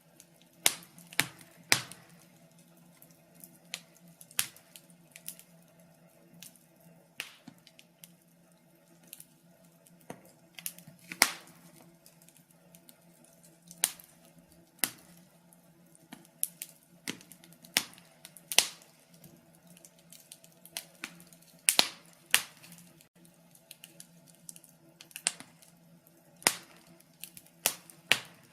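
Wood fire crackling: irregular sharp pops and snaps of varying loudness, a few much louder than the rest, over a faint steady low hum.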